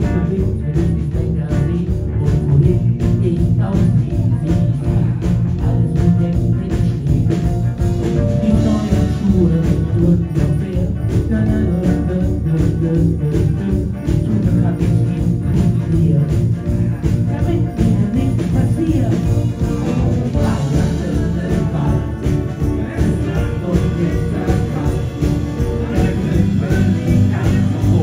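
A live band playing a song with a steady beat.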